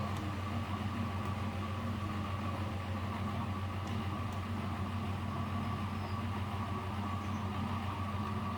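Miele W761 front-loading washing machine running, a steady motor hum with a constant higher whine above it.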